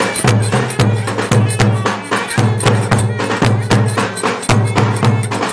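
Turkish folk dance music played live on clarinets over a pulsing, repeating bass line and busy percussion with sharp clicking strokes.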